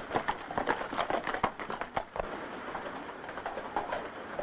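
A rapid, irregular run of sharp knocks and clatter lasting about two seconds, then dying down to a faint steady hiss.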